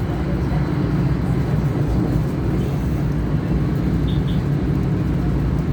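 Steady running rumble of a moving passenger train, heard from inside the carriage.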